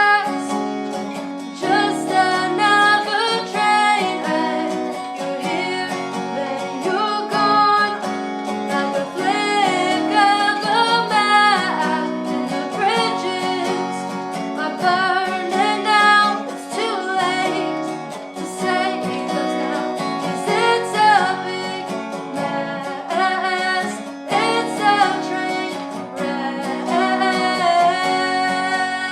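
A solo singer performing a song to strummed acoustic guitar.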